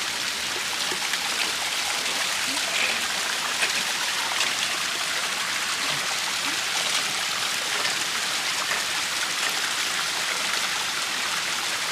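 Fresh Himalayan spring water running and splashing steadily, close to the microphone.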